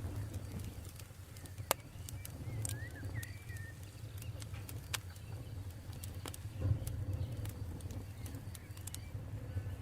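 Campfire burning with a steady low rumble and scattered sharp crackles and pops, the loudest a little under two seconds in and another about five seconds in. A few short bird chirps around three seconds in.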